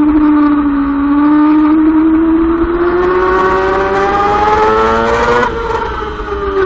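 Yamaha R6 sport bike's inline-four engine at high revs on track, heard onboard. The pitch dips slightly, then climbs steadily for about three seconds as the throttle is held open through a corner. About five and a half seconds in, it drops sharply and keeps falling.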